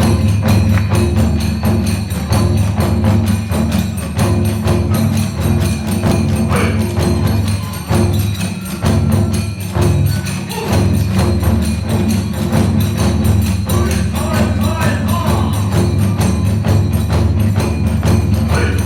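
Kagura hayashi ensemble playing continuously: large and small taiko drums beating a dense, driving rhythm under clashing tebyōshi hand cymbals, with a bamboo flute line above.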